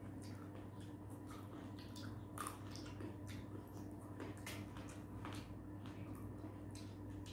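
Two people biting and chewing green grapes, with many short wet squishes and clicks coming irregularly. A steady low hum runs underneath.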